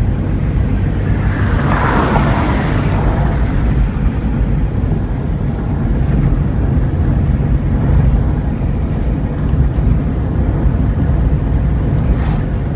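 Steady low drone of a road vehicle driving, its engine and road noise heard from the vehicle. About two seconds in, a rush of hiss swells and fades over a second or two.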